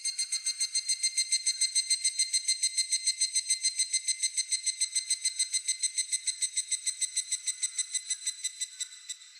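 An evening cicada (higurashi) singing its "kana-kana-kana" call: a fast, even run of high ringing pulses, about eight a second, loudest a couple of seconds in and then slowly fading away.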